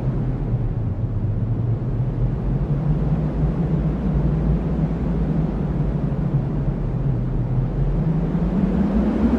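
Cyclone-force wind blowing as a deep, steady roar; its low, moaning pitch sinks through the middle and rises again near the end as a gust builds.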